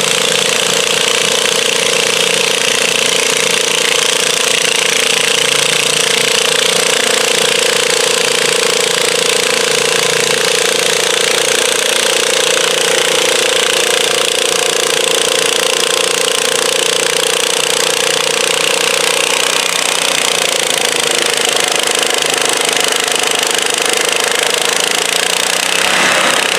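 Garden tractor engine running hard and steady with a harsh rattle, pulling a weighted stoneboat; its note weakens after about twenty seconds.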